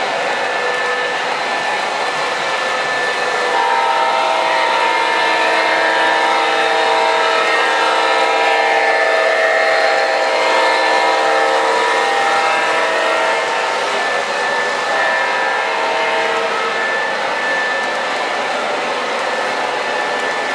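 MTH Premier O-gauge ES44AC model diesel locomotive running, its onboard sound system playing diesel engine sound over steady rolling noise. A long horn blast of several steady tones starts a few seconds in and lasts about ten seconds.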